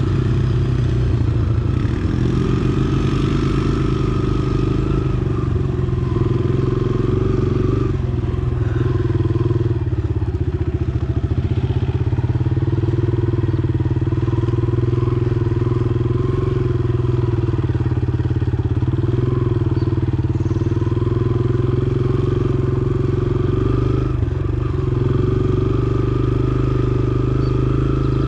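Dirt bike engine running steadily under throttle on a motocross track, its pitch rising and falling with the throttle.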